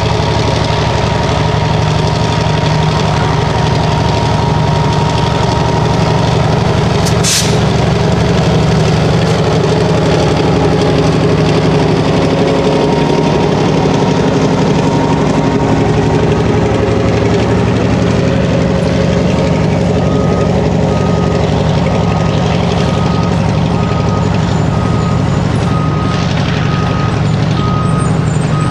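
Freight train rolling past: steel wheels of a boxcar and pipe-loaded flatcars running on the rails, with the GMD1 diesel locomotive's engine running steadily underneath. A single sharp knock comes about seven seconds in, and a short beep repeating about once a second starts around twenty seconds in.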